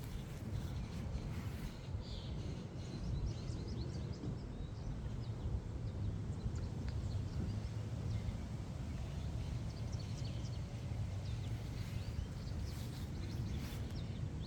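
Steady rumble of road traffic, with small birds chirping briefly here and there.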